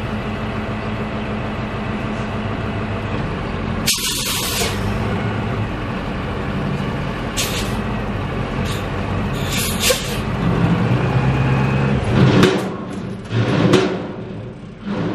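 Dump truck's diesel engine running steadily, with several short hisses of released air, the first and loudest about four seconds in. Near the end the engine surges louder a couple of times, then drops back.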